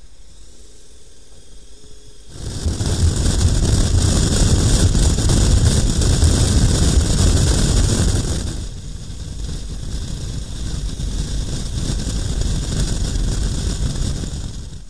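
Loud rushing wind and road noise from a moving motorcycle. It starts suddenly about two seconds in, eases to a lower level about nine seconds in, and cuts off near the end.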